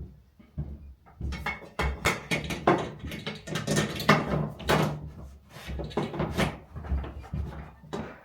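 A rapid, irregular run of knocks, clicks and rattles as a ceiling light fixture is worked and pushed onto its mounting bracket.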